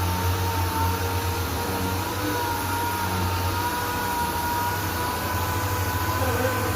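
Power sander running steadily with a constant whine, sanding epoxy primer on a car body panel with 240-grit paper.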